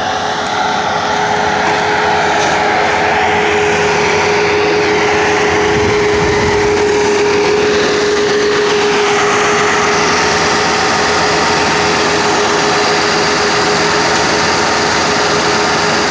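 Skid-steer loader engine running steadily, with a constant whine over it and a low rumble that swells briefly about halfway through.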